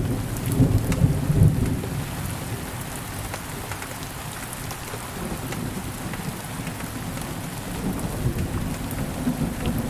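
Steady rain with scattered drop ticks, under a low rumble of thunder that fades over the first second and a half and swells again near the end.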